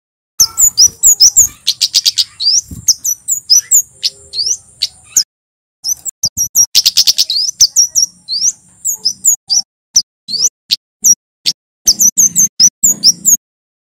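Male Javan kemade, a flowerpecker, singing loud, rapid, sharp high notes and quick sweeps over a buzzy trill held for several seconds at a time. The song breaks off briefly about five seconds in, then resumes.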